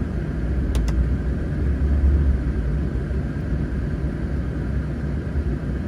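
Low, steady rumble of a vehicle heard from inside the cab, swelling briefly about two seconds in.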